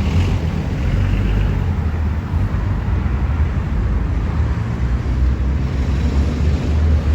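Steady low rumble of road traffic passing a busy intersection.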